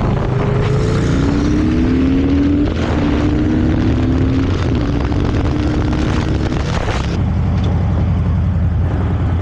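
Harley-Davidson V-twin motorcycle riding, accelerating with its engine pitch rising and dropping back at two upshifts, over heavy wind noise. About seven seconds in the throttle eases and the wind noise drops, leaving a steady low engine rumble.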